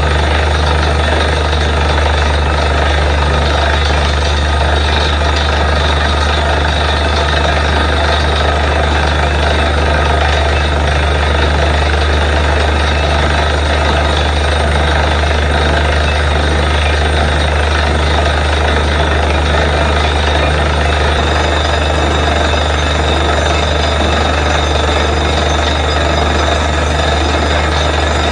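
Borewell drilling rig running steadily, with an unbroken low engine drone under a loud, even noise.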